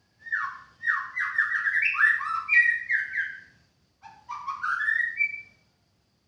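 White-rumped shama singing: two phrases of quick, varied whistled notes, the first about three seconds long, then a short pause and a shorter second phrase that climbs in pitch.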